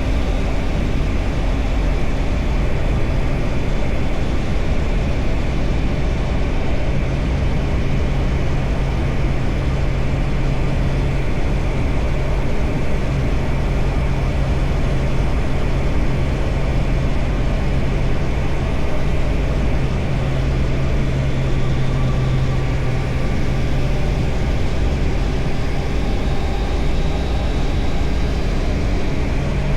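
Triumph Tiger Sport 660's three-cylinder engine running under way at fairly steady revs, over wind and road noise.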